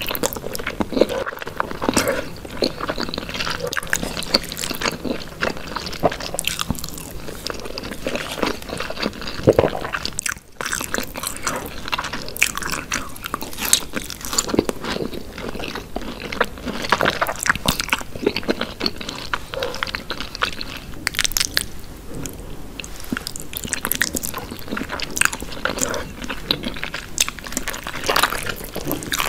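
Close-miked biting and chewing of sauce-covered roast chicken, an irregular run of mouth clicks and smacks with a brief break about ten seconds in.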